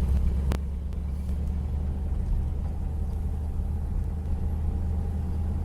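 Car running with a steady low rumble, with one sharp click about half a second in.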